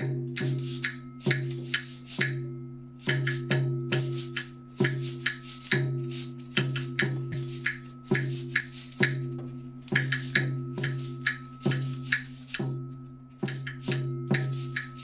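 Student percussion ensemble playing layered repeating rhythms on small hand percussion instruments, a busy pattern of sharp strikes several times a second over a held low note.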